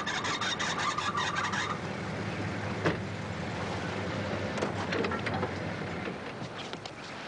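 Parking-lot ambience: steady car engine noise, with rapid bird chirps over the first second or so and a single sharp click about three seconds in.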